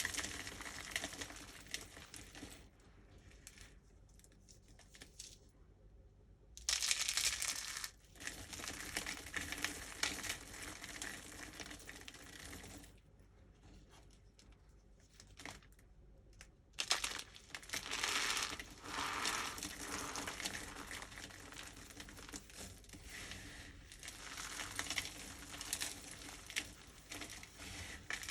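Dry soap mixed with starch being crushed and crumbled: a dense, crisp crackling and crunching. There are two quieter pauses of a few seconds, each followed by a loud burst of crunching.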